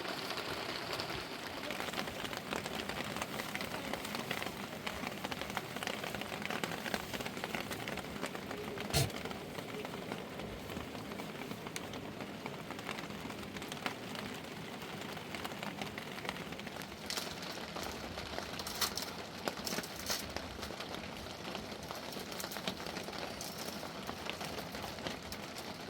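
Steady rain falling, an even hiss, with a few sharp knocks, the loudest about nine seconds in.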